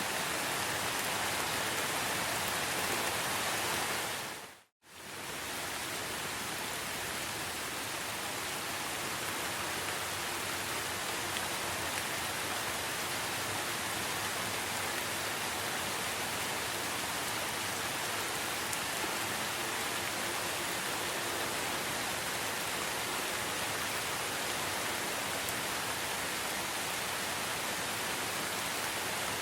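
Steady, dense rain hiss with no separate drops standing out. About five seconds in the sound fades out to silence for a moment and fades straight back in.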